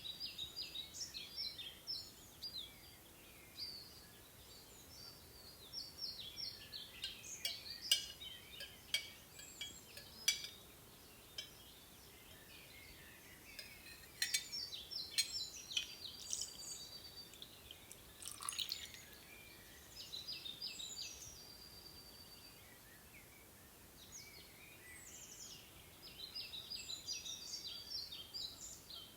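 Small songbirds chirping and twittering in repeated bursts of high, quick notes, with a few sharp ticks among them.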